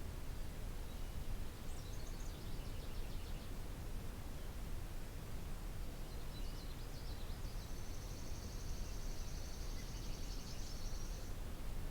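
Songbirds singing over a steady low background rumble: a short run of quick high notes about two seconds in, then a long, even, high trill lasting nearly four seconds in the second half.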